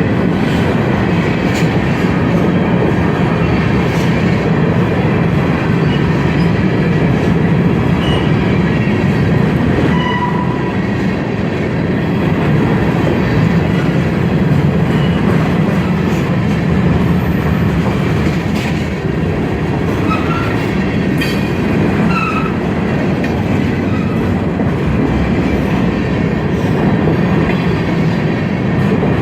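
Freight train cars rolling steadily past on the rails, a continuous wheel rumble with clicking over the rail joints. A few short, faint wheel squeals come through about a third of the way in and again past the middle.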